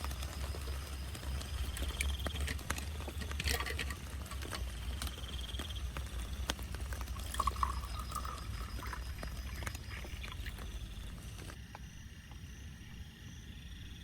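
Rain pattering and dripping on a tent, with many scattered sharp drop hits over a steady low rumble. It grows quieter and duller in the last couple of seconds.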